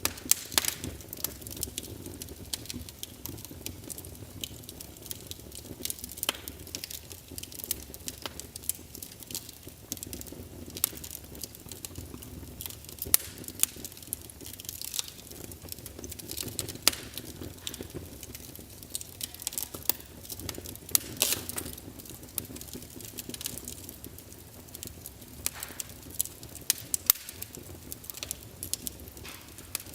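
Wood fire crackling in a fireplace: a steady low rumble of flames with irregular sharp pops and snaps throughout.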